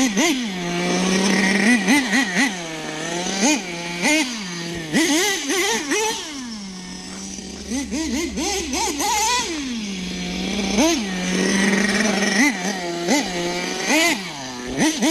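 Team Associated MGT 3.0's .21 nitro two-stroke glow engine being driven: short, sharp revs over and over, settling back to a steady idle several times in between.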